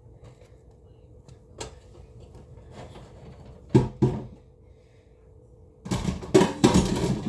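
Kitchen handling noises: two sharp knocks a little past the middle, then about a second of loud clattering and rattling near the end, over a steady faint hum.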